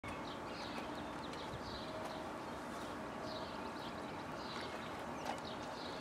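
Birds chirping repeatedly over a steady, faint outdoor background noise.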